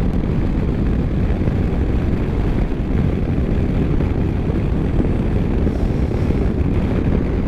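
KTM 1290 Super Adventure motorcycle under way: a steady engine drone mixed with wind rushing over the microphone.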